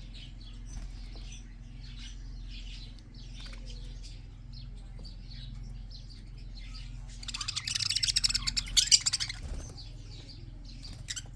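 A flock of budgerigars chirping and chattering in many short calls, with a louder, dense burst of rapid sound lasting about two seconds past the middle. A steady low hum runs underneath.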